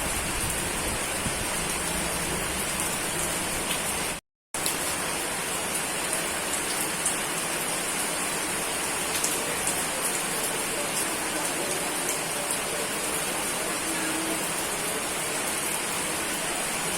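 Steady rain falling: a dense, even hiss with scattered sharp raindrop ticks. It cuts out to silence for a split second about four seconds in, then carries on unchanged.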